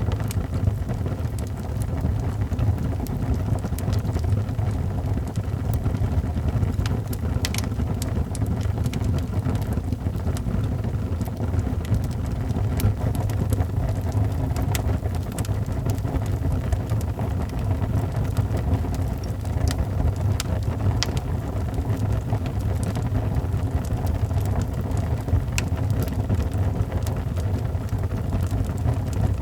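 Fireplace fire burning steadily: a constant low rumble with scattered sharp crackles and pops from the burning wood.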